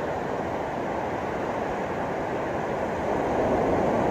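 Ocean surf washing steadily on a beach, swelling a little louder near the end.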